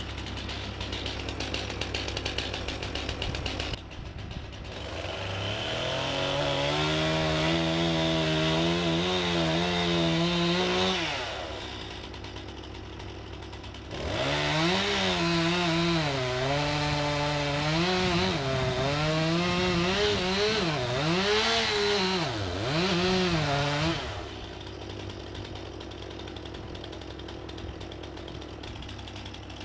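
Two-stroke chainsaw cutting into a standing tree trunk to fell it: idling, then revved up and held under load twice, its pitch wavering and dipping as the chain bites, dropping back to idle between the two cuts and after them.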